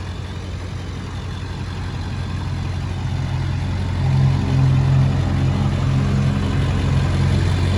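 Ford 7.3 L Power Stroke turbodiesel V8 idling steadily, with a deep even drone that grows louder about halfway through.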